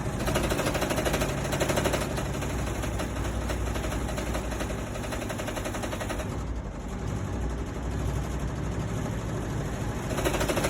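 A steady, fast mechanical rattling, like a motor-driven mechanism running.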